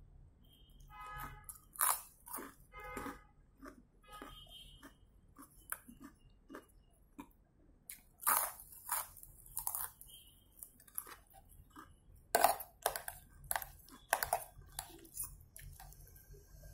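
Chewing and crunching of crispy wheel-shaped fried snack crackers, with short sharp crunches scattered throughout and the loudest about twelve seconds in.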